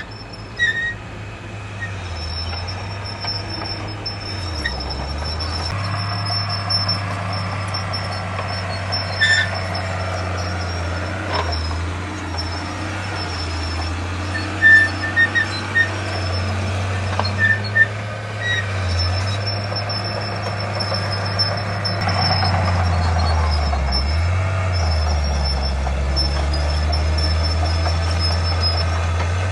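Diesel engine of heavy earthmoving machinery running steadily, its pitch dipping and recovering several times as the load changes, with brief high squeaks and a few short knocks.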